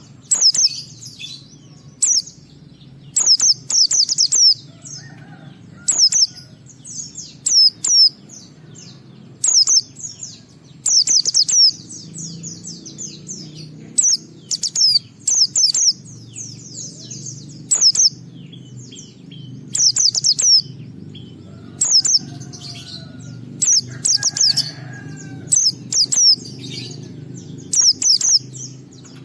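Pleci (white-eye) singing: rapid bursts of high, quick sweeping chirps repeated every second or two, over a steady low hum.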